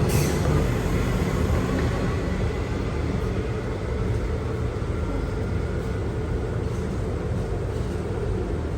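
A train running through the station, a steady low rumble with faint tones, with a short hiss right at the start.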